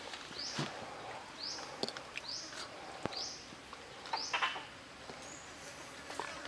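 A bird repeating a short, high chirp that rises and then levels off, about once a second, over soft rustling and crinkling of leaves being handled.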